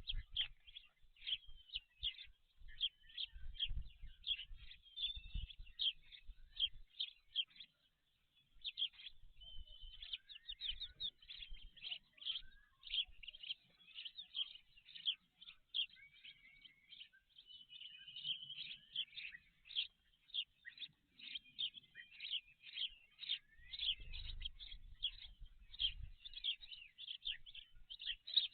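Birds chirping in a dense, rapid stream of short high calls, with a low rumble in the first few seconds and again near the end.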